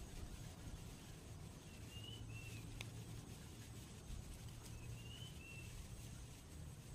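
Faint outdoor ambience with a steady low rumble, and a bird calling twice, each call a short phrase of two high notes, about three seconds apart.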